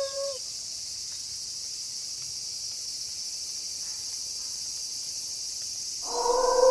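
Steady high-pitched chorus of crickets in a night ambience. A wolf's howl slides down in pitch and fades just after the start, and a new long howl begins near the end.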